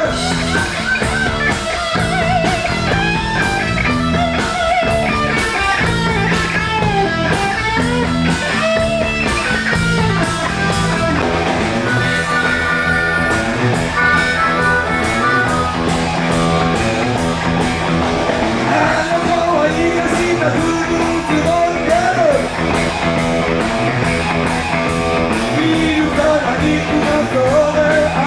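Live blues-rock band playing an instrumental break: electric guitar leads with bent, wavering notes over bass and a steady drum beat with cymbals.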